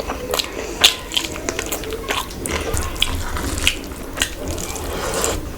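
Close-miked wet eating sounds: rice and curry gravy being chewed and squelched, with many quick, sharp smacks and clicks.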